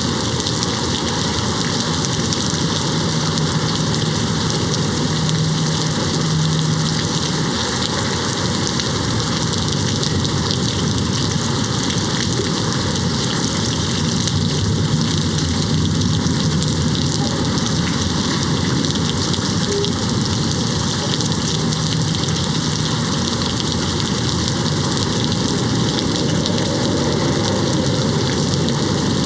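Steady rain falling on a window, an even hiss of many drops.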